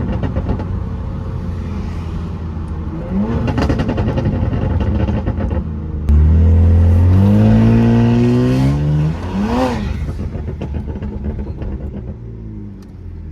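BMW 335i's turbocharged N54 inline-six being revved in place: it idles, gives a short blip about three seconds in, then a loud rev that climbs for about three seconds, a quick blip near ten seconds, and drops back to idle.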